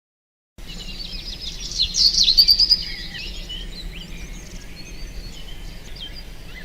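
Birds singing, many short chirps and trills overlapping, loudest about two seconds in, over a faint steady low hum. It starts abruptly after a moment of silence.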